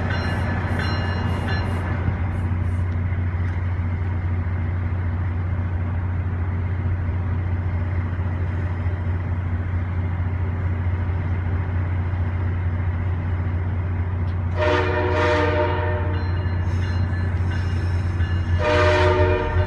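MARC commuter train with bilevel coaches rolling past on the track, a steady low rumble. About 15 s in, and again just before the end, the train horn sounds a blast of about a second each.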